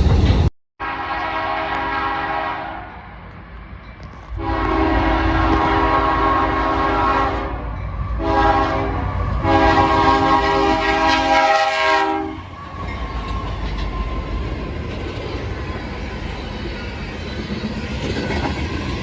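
Locomotive air horn, several notes sounding together, blowing the grade-crossing pattern of long, long, short, long. It is followed by the steady rumble of the passing train.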